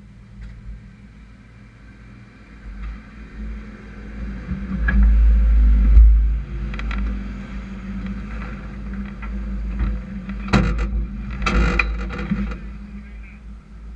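Race trucks' engines running on the track, swelling loudest as they pass about five to six seconds in, with a few sharp clattering sounds around ten to twelve seconds in.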